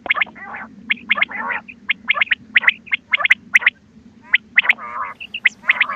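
Recorded quail calls used as a hunting lure: quick clusters of short, sharp notes repeated several times a second, with more than one bird calling over each other. A steady low hum runs underneath.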